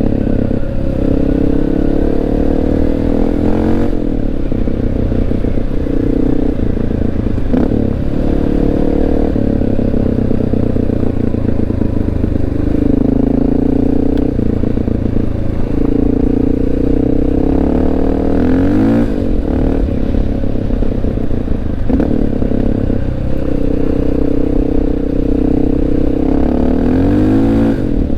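Honda XR650L's single-cylinder four-stroke engine running under way, its pitch rising and falling several times with throttle and gear changes, with tyres clattering over a gravel road.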